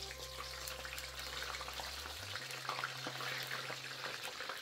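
Eggplant slices frying in hot oil in a pan, a steady sizzle with many fine crackles.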